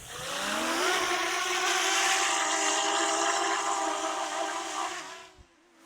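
DJI Mini 3 Pro drone's propellers whining as the motors work hard against a strong wind while carrying a 360 camera. The pitch rises over the first second, holds steady with wind rushing, and fades out near the end.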